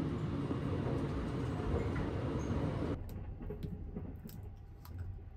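Steady running noise of the Sunrise Seto sleeper train in motion, heard from inside the cabin. It cuts off abruptly about three seconds in, leaving a quieter stretch with a few sharp clicks as a plastic water bottle's cap is twisted open.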